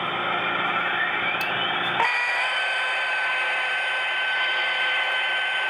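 Steam whistle sound effect from the sound decoder of a Broadway Limited On30 2-8-0 model steam locomotive, played through its small onboard speaker: one long, steady blast of several tones over a hiss.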